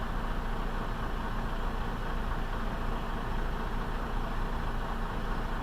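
Steady car engine and road noise, even throughout with no distinct events.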